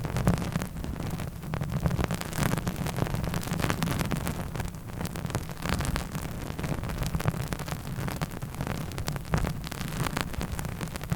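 Close-miked ASMR trigger sounds: a dense, unbroken run of fast scratchy clicks and taps on the microphone.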